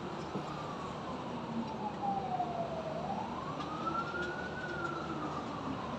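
An emergency vehicle's wailing siren, its pitch falling slowly, rising about halfway through, then falling again, over the steady noise of city traffic.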